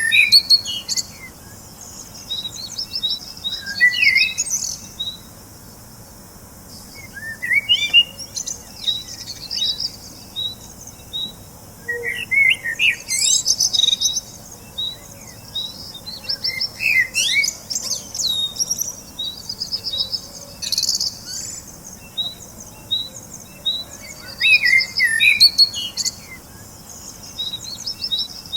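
Songbirds chirping and singing in short bursts of quick chirps and trills every few seconds, over a faint steady background.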